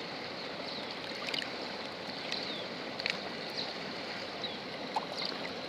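Running water flowing steadily, with a few faint, short high-pitched sounds scattered through it.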